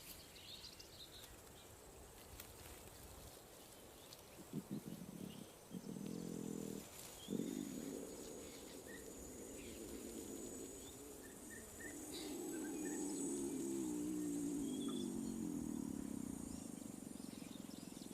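Lion making low, wavering vocal calls, several short ones and then one long drawn-out call, likely from the cub during a painful seizure. A steady high chirring of insects and a few faint bird chirps run underneath.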